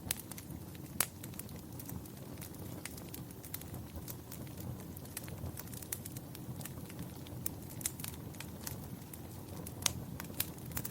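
Wood fire burning in a fireplace, with a steady low rustle and frequent sharp, irregular crackles and pops, a few louder snaps among them.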